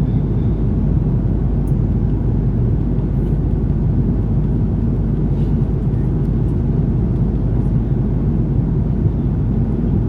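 Steady low roar of engines and airflow heard inside the cabin of an Airbus A330-300 airliner, even in level with no rise or fall.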